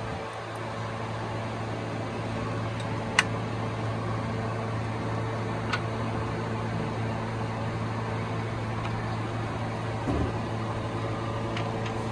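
Toyota Premio's 1ZZ four-cylinder engine idling steadily, with a sharp click about three seconds in and a couple of fainter ticks later.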